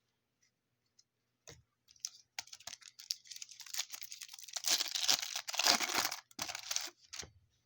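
Wrapper of a 1995 Upper Deck SP baseball card pack being torn open and crinkled: a few clicks about a second and a half in, then a long tearing, crinkling sound that is loudest past the middle.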